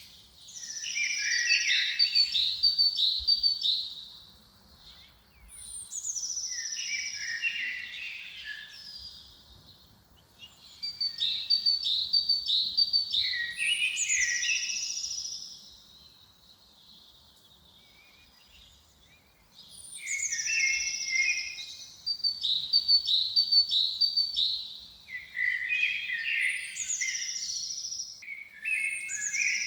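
A songbird sings the same song over and over. Each phrase opens with a high falling note, runs through a quick trill and ends on lower notes, followed by a short pause. There is a longer pause about halfway through.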